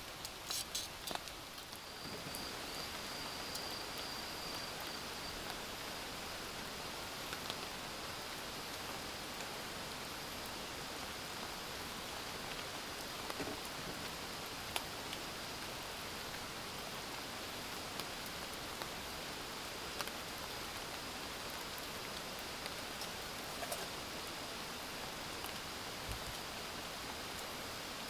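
Steady rain falling, with scattered louder single drips. A few sharper clicks in the first two seconds.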